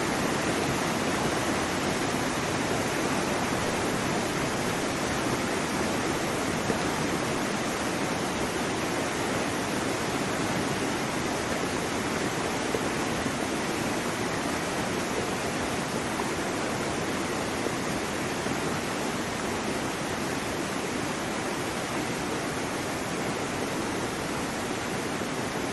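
Waterfall: a steady rush of falling water that holds an even level throughout.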